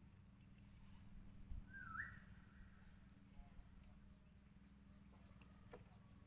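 Near silence with a faint steady low hum, broken about two seconds in by one short bird call that rises quickly and then holds its pitch briefly.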